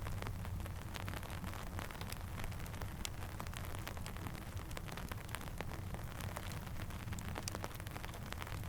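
Steady rainfall with many scattered sharp clicks over a low, even rumble.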